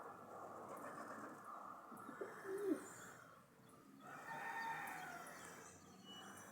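A rooster crowing once, a call of about a second and a half starting about four seconds in, with a short call from another bird a little before it.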